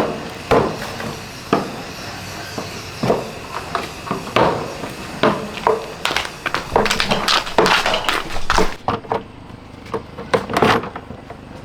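A run of irregular knocks and clatters, coming thickest in the middle stretch.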